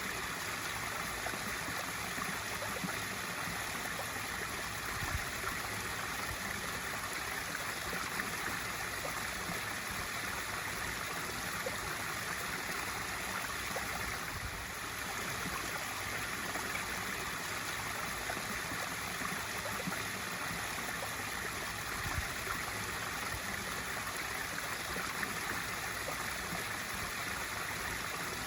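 Pool waterfall feature splashing steadily into the pool, a constant rushing and trickling of water.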